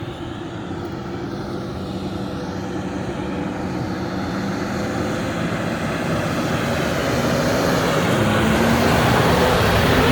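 Toyota Tacoma pickup engine working hard under load as the truck tries to climb a steep sand hill. It builds steadily louder over a broad rush of noise, and its pitch rises near the end.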